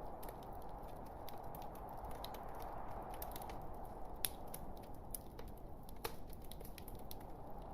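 Log fire burning in a fireplace: a steady hiss with frequent small irregular crackles and snaps, and one sharper pop about four seconds in.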